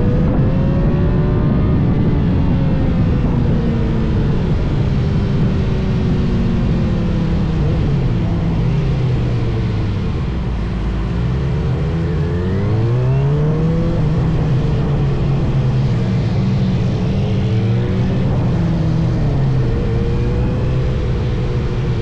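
A vehicle engine running at changing revs: its pitch falls steadily, climbs again about halfway through, holds, and drops once more near the end, over a constant low rumble of wind noise.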